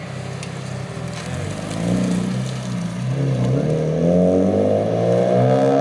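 Car engine under way, its note wavering at first and then rising steadily as it accelerates from about halfway through.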